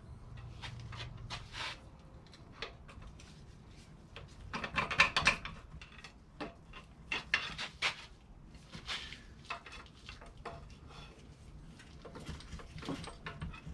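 Metal hand tools clinking, tapping and scraping against engine parts during a teardown, in irregular clanks with a louder flurry about five seconds in.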